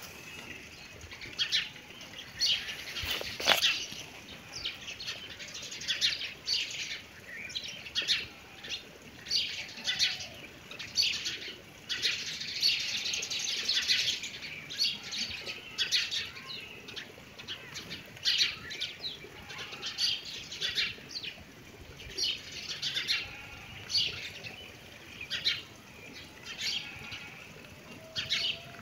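Small birds chirping continuously, many short, high chirps in quick succession from several birds.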